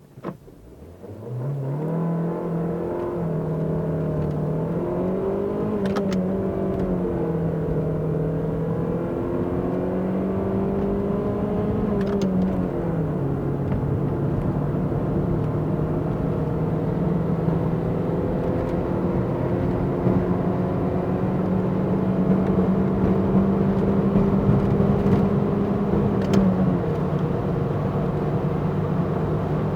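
Fiat Brava 1.2 16V's four-cylinder petrol engine accelerating from a standstill through the gears. The engine note climbs in each gear and drops at each shift: about six seconds in, at about twelve seconds, and near the end.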